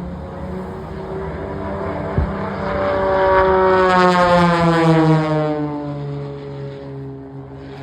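Aircraft flying past with a steady engine drone. It grows louder to a peak about four to five seconds in, then fades as its pitch drops. There is one sharp click about two seconds in.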